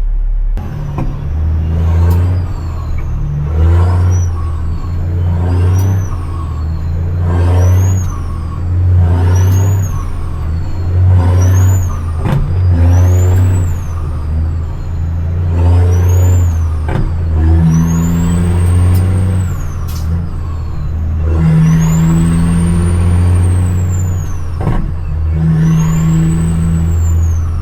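CAT C-15 diesel dump truck pulling up through the gears of its 18-speed transmission: the engine drone swells with each gear, and the turbo whistle rises and falls about ten times, drooping at every shift. The gears run short at first, about every two seconds, then longer near the end.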